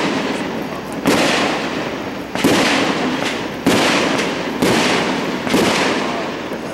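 Aerial firework shells bursting overhead: five booms about a second apart, each trailing off in a long echo.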